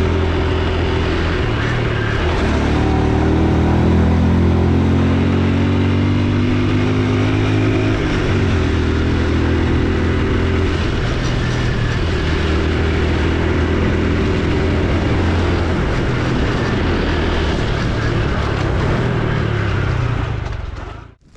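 Honda Super Cub C125's single-cylinder engine running while riding, with road and wind noise. The engine pitch shifts a few times as speed changes. It cuts off abruptly near the end.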